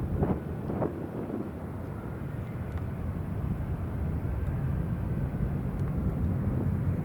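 Jet aircraft engines rumbling steadily and low, heard from a distance, with two short bursts of noise within the first second.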